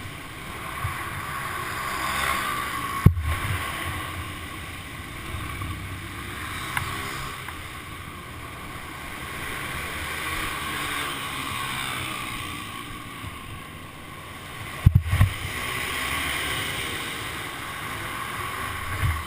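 Motorcycle engine running, swelling and easing off, under wind noise on a helmet-mounted microphone, with two sharp knocks about three seconds in and again near fifteen seconds.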